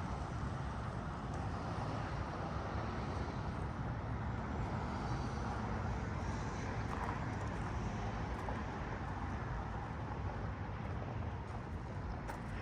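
Steady freeway traffic noise from vehicles passing on the interstate.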